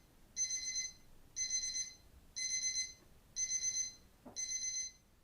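Electronic alarm beeping in a steady rhythm, about one warbling beep a second, five beeps in all.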